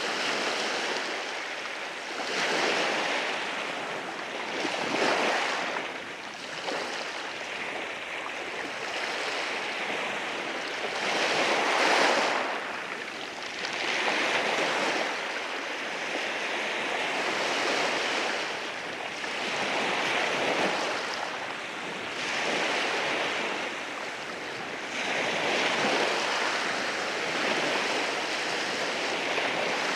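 Waves washing in over a rocky shore, a continuous hiss of surf that swells and ebbs every few seconds, the loudest surge about twelve seconds in.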